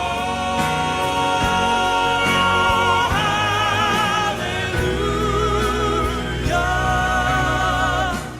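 Male gospel quartet singing long held chords in close four-part harmony with vibrato, moving to a new chord about every one and a half to two seconds. The sound dies away right at the end.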